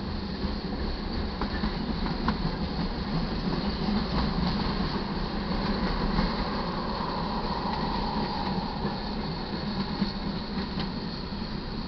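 Freight cars of a slow-moving manifest train rolling past close by: a steady rumble of steel wheels on the rails, with scattered clicks and clanks.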